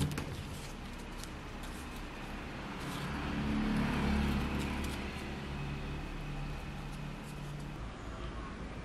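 A steady low rumble that swells to its loudest about four seconds in and then eases off, with faint scattered clicks above it.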